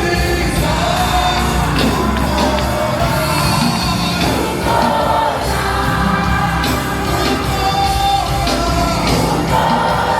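Live gospel worship music: singers over a band with a steady bass, with the crowd yelling and cheering along.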